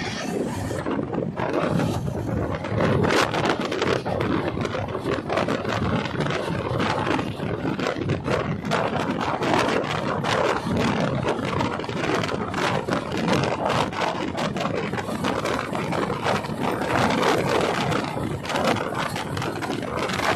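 A train running close by: a steady rumble with a dense, uneven clatter of wheels and coaches on the track.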